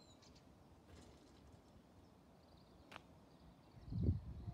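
Quiet rural ambience with faint birdsong, a single sharp click about three seconds in, and a brief low rumble near the end.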